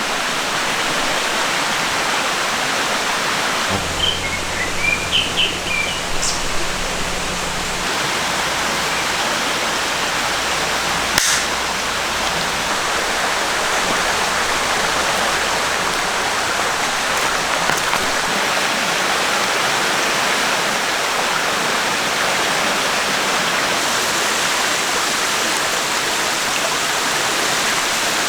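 Mountain valley stream flowing steadily. A low hum comes in for a few seconds about four seconds in, along with a few short high chirps, and there is a single click near the middle.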